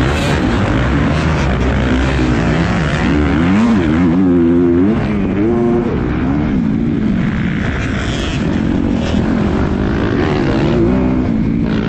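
Motocross bike engine at race pace, its pitch repeatedly climbing and dropping as the throttle is opened and shut, over a steady rush of noise.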